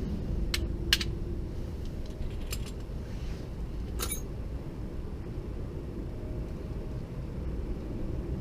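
A few sharp metallic clicks and clinks, as of tools or small metal parts being handled, over a steady low rumble.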